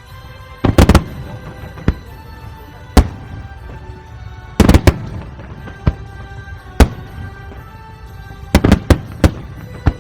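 Fireworks shells bursting, about a dozen sharp bangs, some single and some in quick clusters of three or four, over music.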